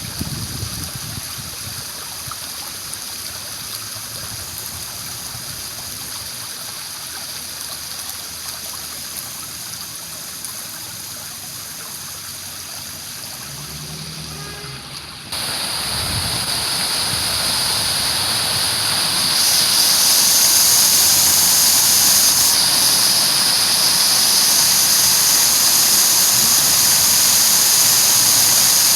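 Water rushing and splashing steadily from a park fountain and waterfall. About halfway through it jumps suddenly louder and brighter, then steps up again a few seconds later.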